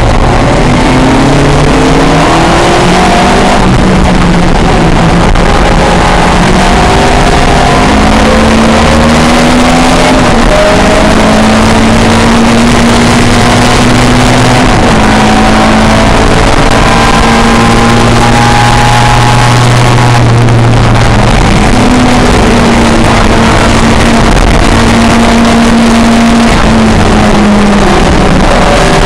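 Pre-1966 touring car engines at racing speed, very loud, their pitch climbing and dropping again and again as they accelerate and change gear, with more than one engine heard at once.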